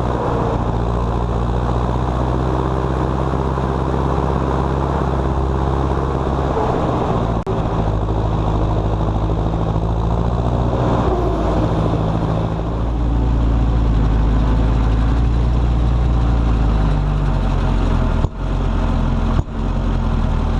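John Deere 6230 Premium tractor's four-cylinder turbo diesel engine running under load while hauling a trailer. The engine pitch rises and falls in the middle, then settles lower and a little louder. There are three brief drops in sound, one in the middle and two near the end.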